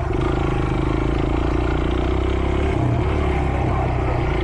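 Small pit bike engine running steadily under throttle while riding, its pitch dipping briefly about three seconds in.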